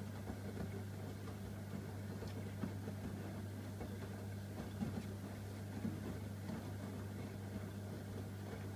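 AEG Öko-Lavamat 85739 washing machine running mid-cycle during a hot wash: a steady low hum with faint, irregular small knocks.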